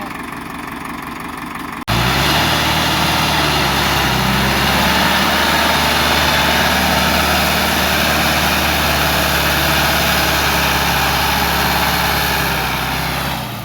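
A tractor engine running steadily with a low, even drone. It cuts in abruptly about two seconds in, after a quieter stretch, and fades near the end.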